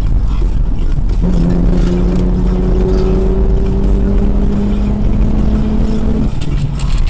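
Car engine and road rumble heard from inside the cabin while driving: the engine note climbs slowly from about a second in as the car accelerates in gear, then drops away near the end as the driver eases off.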